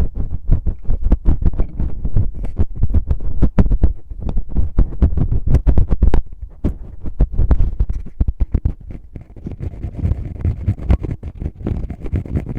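Fingers rubbing, scratching and poking in a microphone's ear for ASMR finger ear cleaning, with quick scratchy crackles and heavy low thumps close to the mic. It eases off a little past the middle, then turns into a more even rubbing.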